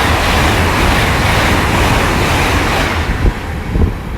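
Intercity Express Train (IET) going through the station at speed: a loud, steady rush of wheel and air noise that dies away about three seconds in as the train clears.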